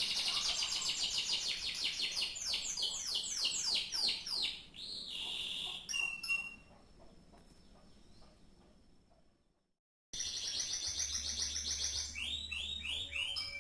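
Domestic canary singing fast, high trills and rolls. The song fades away past the middle, breaks off into a second of silence, then starts again with more trills.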